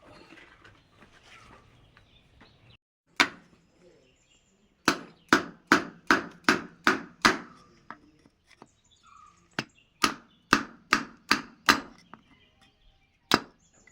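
Hammer blows during tractor brake work: a single blow, then two runs of six or seven quick blows at about two and a half a second, and one more blow near the end, each with a short ring.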